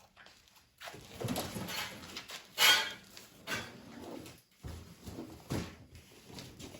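Cardboard parts boxes being handled and set down on a bench: irregular rustling and scraping with a sharp bump about two and a half seconds in.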